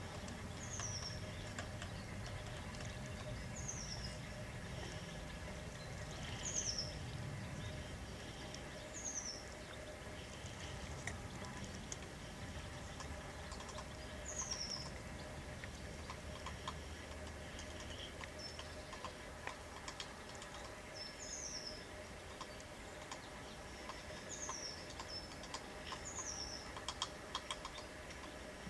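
A bird calling: one short, high, falling note, repeated every two to three seconds. A few light, sharp taps are scattered through, gathering into a quick cluster near the end.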